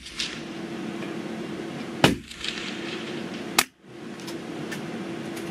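Two sharp cracks of a .22 LR rifle firing, about a second and a half apart, over a steady low hum.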